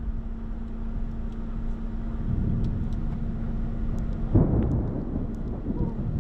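Thunder during a severe thunderstorm: a steady low rumble with a steady hum, then a sudden loud crack about four seconds in that rolls on into rumbling.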